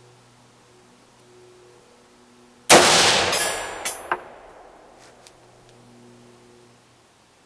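A single shot from an AR-15 rifle in .223/5.56, a sudden loud crack whose echo dies away over about a second and a half. About a second after it come two sharp clinks, then a couple of faint ticks.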